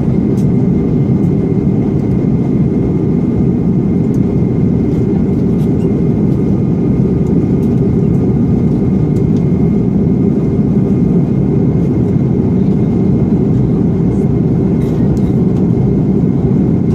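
Steady low drone of engine and air noise inside the passenger cabin of an Airbus A330-300 airliner, with a faint steady high whine over it.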